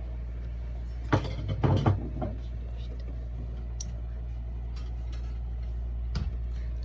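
Shower sump pump on a sailboat running with a steady low hum, with a cluster of knocks and sputters about a second in as it kicks on and spits out water.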